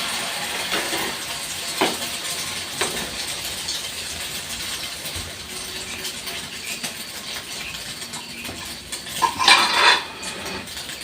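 Kitchen utensils clinking against a pan or dish: a few single clinks early, then a louder clatter just before the end, over a steady hiss.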